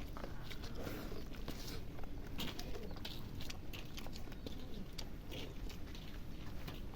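Close-miked eating sounds: chewing and biting with many small clicks and crunches, running on without a break.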